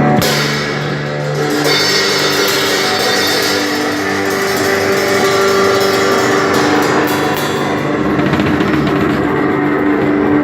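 Live rock music from a guitar and a drum kit: held guitar chords over drumming and ringing cymbals, with a hit about at the start.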